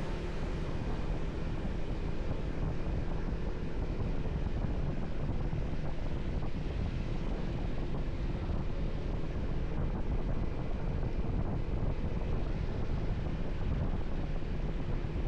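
Wind rushing over the microphone on a moving motorcycle, with the steady low rumble of the bike running at an even pace.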